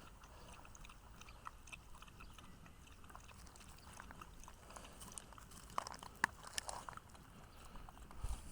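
Dog chewing and crunching its food, faint scattered crunches that grow a little more frequent and louder after the middle.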